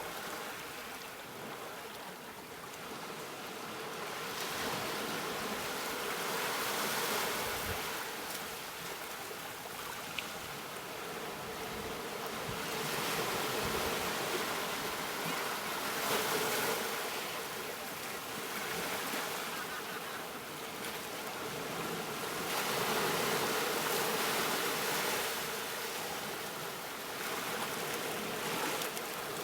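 Ocean surf: waves breaking and washing in as a steady rushing noise that swells and fades every several seconds.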